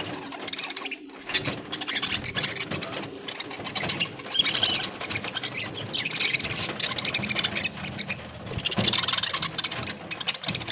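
A flock of budgerigars chattering and chirping in a rapid, busy stream, with louder bursts of calls about four seconds in and again near the end.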